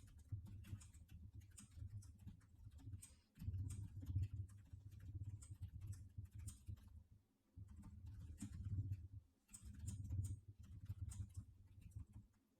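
Faint low hum that drops out briefly three times, with scattered small clicks throughout.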